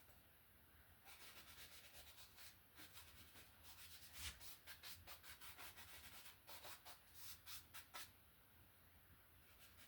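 Faint paintbrush strokes over wet oil paint on canvas: quick, repeated scrubbing strokes that start about a second in and stop near the end, the last few a little louder.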